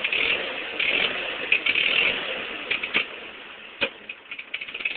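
Ford 8N tractor's four-cylinder engine idling roughly, with irregular sharp pops and clicks from uneven firing; the engine is struggling to hold its idle. The sound fades steadily over the few seconds.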